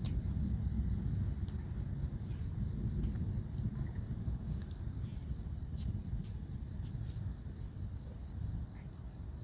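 Crickets chirping steadily under the low rumble of distant thunder, which slowly dies away.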